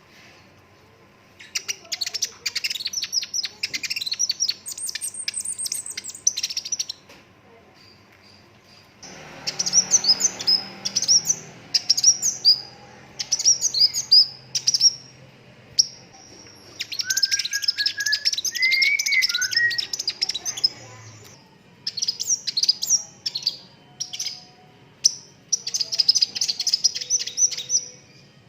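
Sunbird song: fast, high-pitched twittering and chirping in bouts of a few seconds separated by short pauses, with a lower whistled phrase near the middle.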